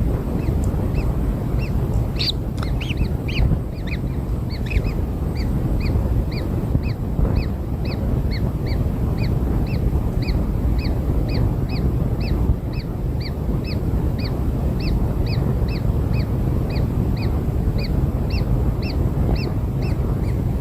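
Kingfisher nestlings giving short, repeated begging calls, about two a second, a little more irregular and louder about two to four seconds in. A steady low rumble runs underneath.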